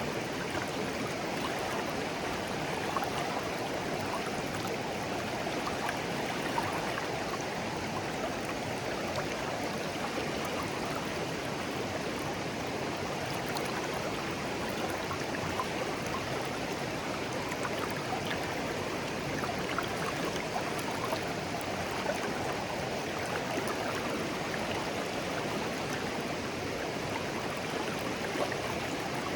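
A shallow clear stream flowing gently, a steady babble of water with small splashes and trickles scattered through it.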